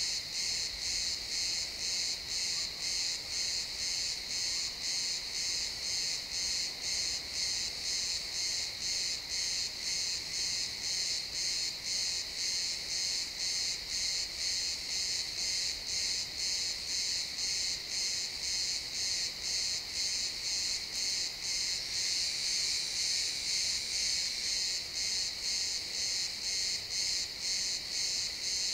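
A chorus of crickets chirping in a steady pulsing rhythm of about two chirps a second. About three-quarters of the way through, a steadier, slightly louder trill fills in for about two seconds.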